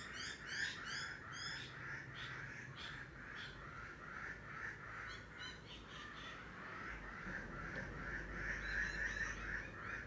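Birds calling: a steady pulsing chorus throughout, with a rapid run of high chirps in the first second or so.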